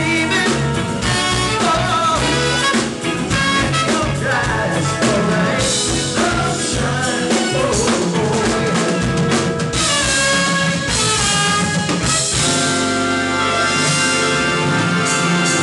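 Band music with a drum kit keeping a steady beat and voices singing over it; about twelve seconds in, the low end shifts to long held bass notes.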